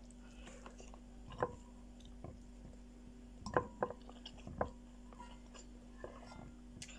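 A person chewing soft fried egg and tomato with wet mouth sounds, with a few short sharper smacks about a second and a half in and between three and a half and four and a half seconds in.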